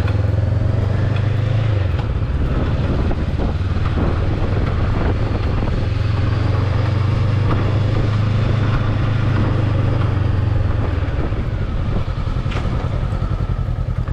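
Small motorbike engine running steadily close by. Its low hum eases off slightly about two seconds in, picks up again, and eases off once more near the end.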